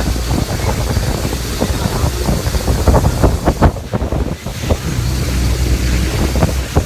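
Wind buffeting the microphone: a loud, low rumble with frequent crackles and knocks.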